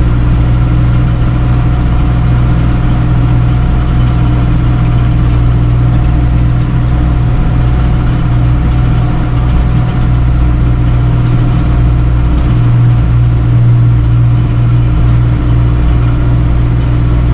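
Tractor engine running steadily at set PTO RPM while driving a small square string baler through the hay, heard from the tractor seat.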